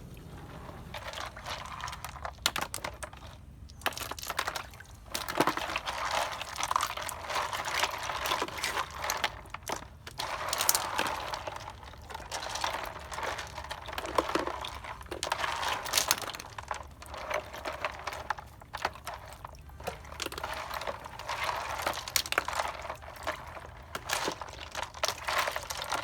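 Shellfish being washed by hand in water: irregular splashing and sloshing with many sharp clicks and knocks of shells against each other.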